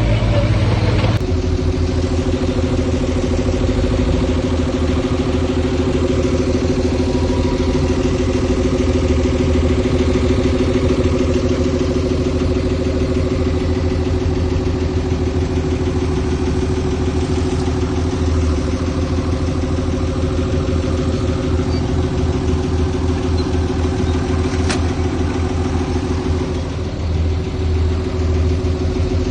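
Heavy earthmoving machine's diesel engine running steadily with a low throb, its note changing about a second in and dipping briefly near the end.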